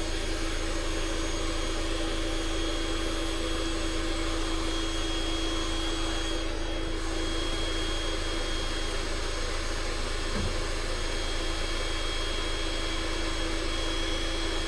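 Electric air pump running steadily as it inflates an air mattress: an even motor hum with a steady whine.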